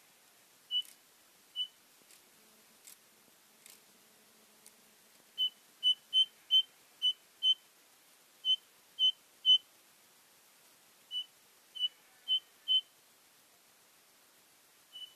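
Common iora (cipow) giving short, single whistled notes at one steady pitch, spaced irregularly and some in quick runs of three or four. A few faint clicks sound in the first few seconds.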